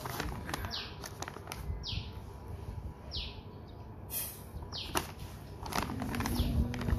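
A bird repeating a short chirp that falls quickly in pitch, about five times, roughly every second and a half. Sharp crinkles of a plastic bag being handled join in during the last couple of seconds.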